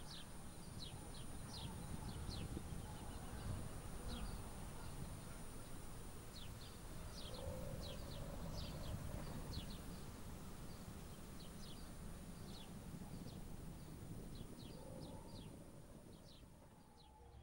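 Small birds chirping: quick, high chirps in irregular clusters over a steady low rumble.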